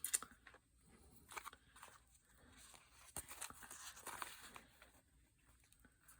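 Faint rustling and crinkling of book-page paper being handled while hand-sewing a pamphlet stitch, with a few soft clicks and a longer stretch of rustling a little past the middle.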